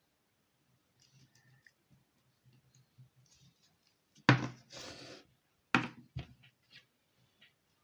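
Paper craft work on a tabletop: a sharp tap about four seconds in, followed by a rustle of paper lasting about a second, then two more clicks, with faint small handling noises around them.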